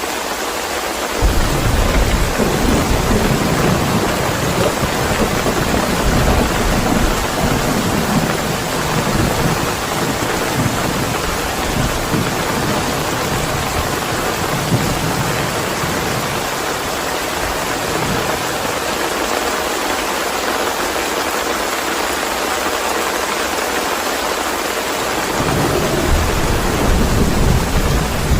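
Steady rain with thunder: a long rumble breaks about a second in and slowly dies away, and a second rumble begins near the end.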